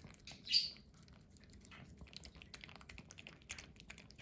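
Faint wet licking and smacking of a small dog eating a frozen treat, a scatter of soft clicks, with one short sharp noise about half a second in.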